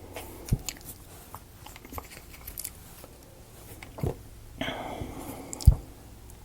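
Wooden model-kit pieces being handled and fitted together: scattered light clicks and knocks, with a second or so of crunchy rustling about two-thirds of the way in and the loudest knock near the end.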